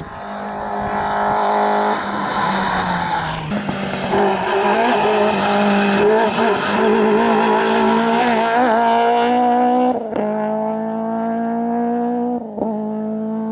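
Rally car engine driven hard on a tarmac hillclimb stage, its pitch climbing under acceleration. It drops sharply at an upshift about ten seconds in, then climbs again, with a brief dip at another shift near the end.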